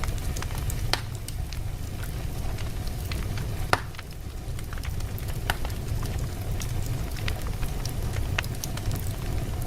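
Wood fire burning in a fireplace: a steady low rumble of flames with irregular crackles and sharp pops from the burning logs, the loudest pop about four seconds in.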